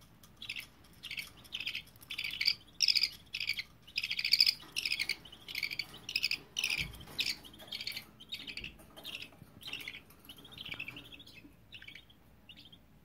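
Budgies chirping in a quick, rapid string of short high chirps, about two to three a second, loudest a few seconds in and growing sparser and quieter near the end.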